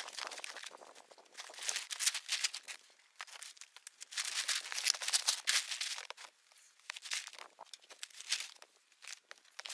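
Tarp sheeting rustling and crinkling in irregular bursts as it is handled and pulled.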